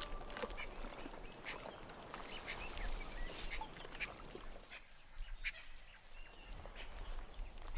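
Faint wild ambience with scattered short animal calls.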